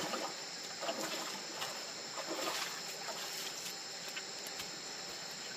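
Crickets and other insects chirping steadily in a night chorus, with a few faint knocks and rustles.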